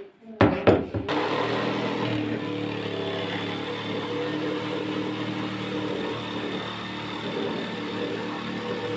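A few knocks, then an electric power tool starts about a second in and runs steadily, cutting a round hole in a tabletop.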